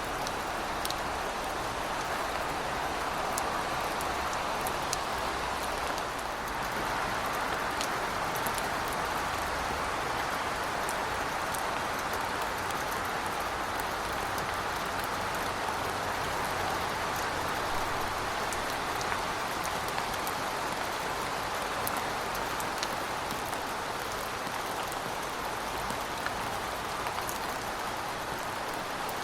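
Heavy rain falling steadily: a dense, even hiss with scattered sharp ticks of single drops striking.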